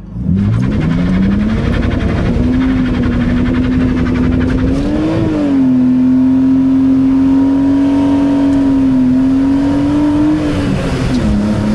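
BMW 328Ci's straight-six engine revved up quickly and held at high, near-steady revs for about ten seconds, wavering briefly around the middle and dropping near the end: a burnout attempt.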